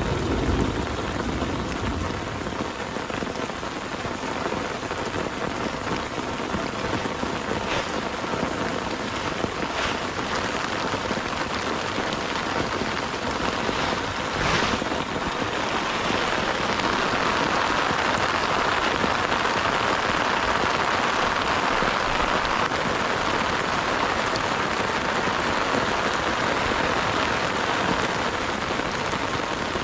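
Heavy rain pouring steadily, with a few louder drop hits, growing heavier about halfway through. The tail of a thunder rumble fades out in the first second.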